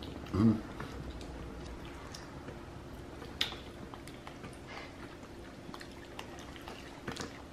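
Faint chewing and small wet mouth clicks from a capuchin monkey and a man eating fruit leather, with a brief low hum about half a second in.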